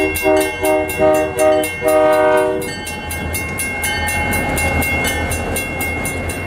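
Locomotive horn sounding a series of short blasts ending in a longer one, over a railway crossing bell ringing steadily. After the horn stops, the low rumble of the passing train builds.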